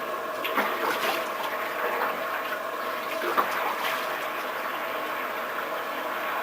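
Water running and splashing steadily, with a few louder splashes about half a second in and again around three and a half seconds in.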